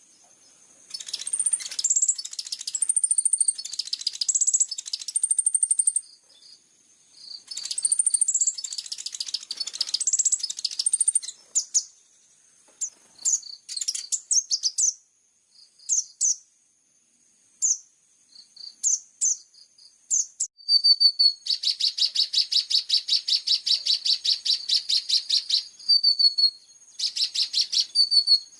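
High-pitched songbird song from a masteran training track for kolibri ninja: twittering phrases and thin whistles, then scattered short chips. About two-thirds of the way in comes a long, fast trill of evenly repeated notes, and a shorter trill follows near the end.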